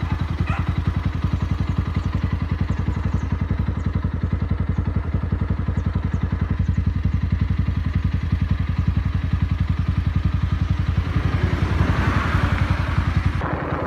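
Motorcycle engine running with an even, rapid pulse while riding, with wind noise rising near the end.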